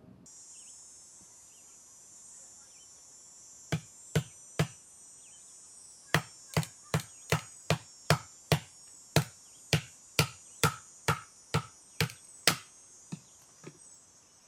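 Firewood being split by hand: three sharp chopping strikes, a pause, then a quick, even run of about fifteen strikes, roughly two a second, ending with two fainter ones. Insects trill steadily in the background.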